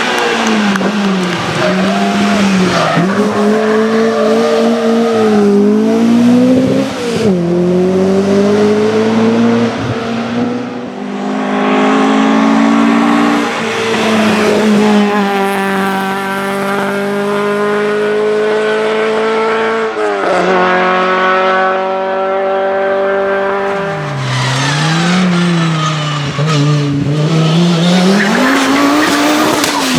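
Rally car engines at full throttle on a stage, the pitch climbing and dropping over and over through the gears and lifts. It comes as several short passes cut one after another.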